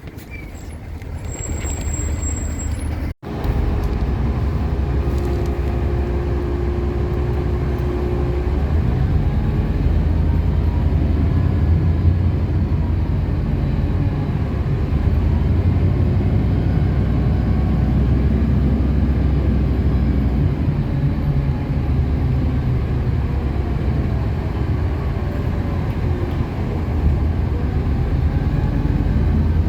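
City bus running and driving along, a steady low engine and road rumble, with a brief dropout about three seconds in.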